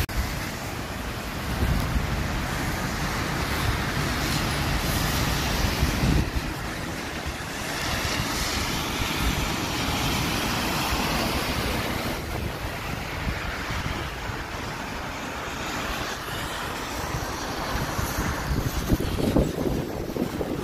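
Rain with traffic passing on wet road: a steady hiss that swells as vehicles go by, with wind buffeting the microphone.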